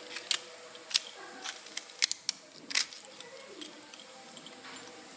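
A handful of sharp, irregularly spaced clicks and taps, with two close together about two seconds in.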